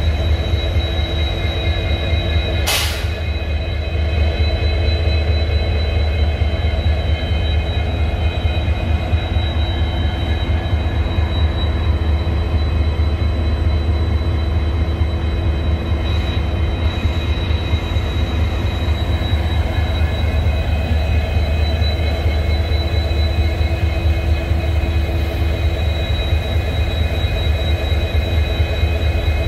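Two EMD WDP4D diesel locomotives with 16-cylinder two-stroke engines idling: a steady deep hum with a thin high whine above it. A single sharp click sounds about three seconds in.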